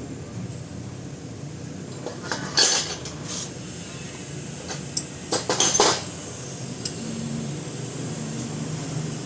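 Metal tools and car parts clinking and knocking during hands-on repair work: a loud clank about two and a half seconds in and a quick cluster of clinks around five to six seconds in, over a steady low hum.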